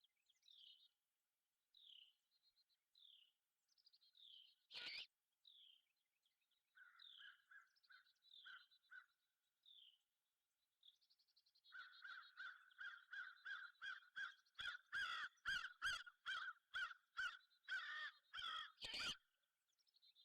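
Crows cawing, a run of harsh repeated calls that grows louder in the second half, with a single sharp click about five seconds in. Faint, short, downslurred chirps of a smaller bird repeat through the first half.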